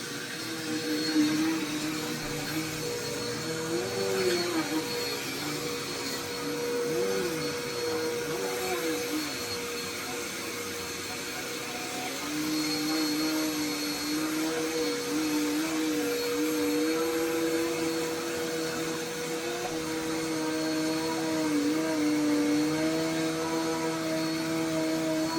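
Upright household vacuum cleaner running continuously: a steady motor whine over a lower hum that wavers up and down in pitch, settling steadier about halfway through.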